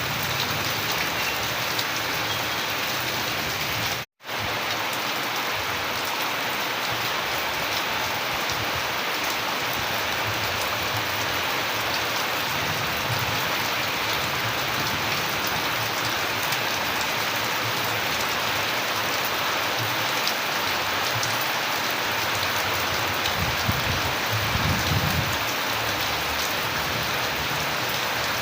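Steady rain falling on a surface, a dense, even patter. The sound cuts out for a split second about four seconds in, and a soft low rumble swells briefly near the end.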